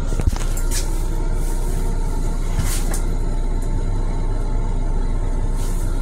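Long Island Rail Road M7 electric railcar running, heard from inside the car as a steady rumble, with a short knock just after the start and a few brief hisses.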